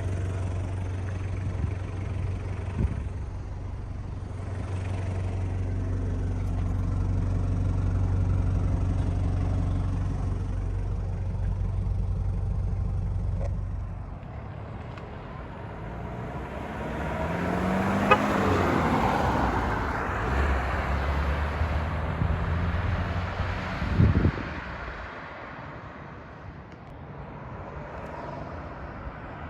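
Toyota 1KZ-TE 3.0-litre four-cylinder turbo diesel idling with a steady low hum. Its low tones drop away about halfway through. A vehicle then passes by, swelling and fading with a falling pitch.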